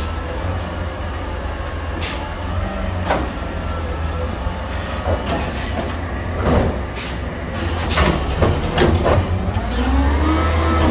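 Garbage truck's diesel engine running with a steady low rumble, with several sharp metallic knocks and a rising whine near the end.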